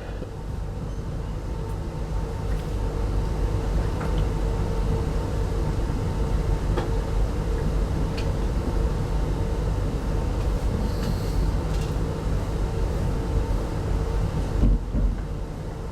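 Running noise inside a 25T passenger coach of a train travelling along the line: a steady low rumble from the wheels and track, with a faint steady hum and a few light ticks.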